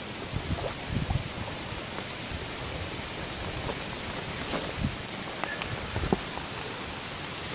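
Steady hiss of rain falling, with a few soft squelching thuds of rubber waders stepping in wet mud around a second in, near five seconds and about six seconds in.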